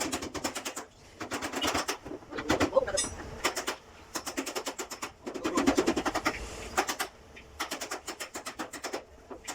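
Rapid mechanical rattling, about fourteen sharp strikes a second, coming in bursts of roughly a second with short breaks between.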